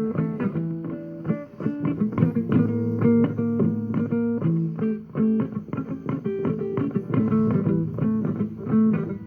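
Instrumental guitar music with no singing: a run of plucked guitar notes over a steady bass line.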